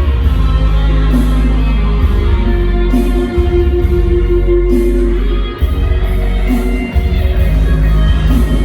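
Loud music with guitar over heavy bass, played through a PA sound system, with a brief dip about five and a half seconds in.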